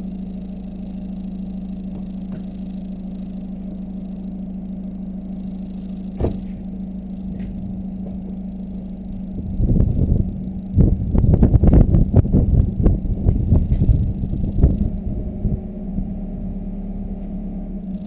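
Volkswagen Golf 2.0 TDI four-cylinder turbodiesel through a 3-inch Cortek exhaust with a high-flow cat, idling steadily. A short throttle blip comes about six seconds in, then a run of quick revs for about five seconds before it settles back to idle.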